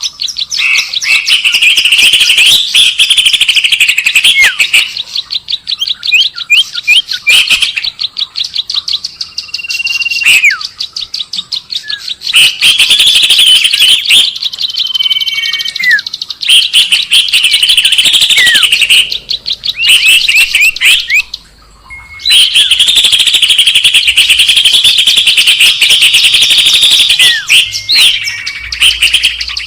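Bird lure recording (suara pikat) of songbird calls: long, fast, dense chirping trills lasting several seconds, broken by short whistled notes that slide downward, with a brief pause about two-thirds of the way through.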